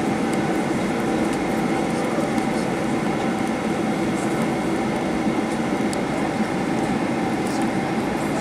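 Steady drone inside a Boeing 737-800's passenger cabin on the ground after landing: an even rush of engine and air-conditioning noise with a few steady humming tones through it.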